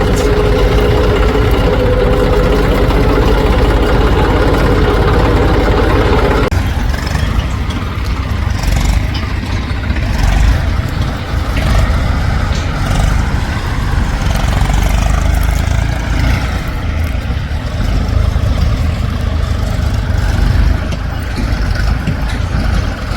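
Heavy diesel engine running hard with a steady note. About six seconds in it drops suddenly to a lower, rougher running, with a few faint knocks.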